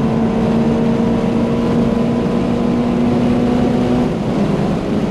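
Subaru BRZ's naturally aspirated flat-four, breathing through a catless exhaust and Tomei header, heard from inside the cabin at full throttle near redline. The engine note holds high and steady, then an upshift about four seconds in drops it to a lower pitch.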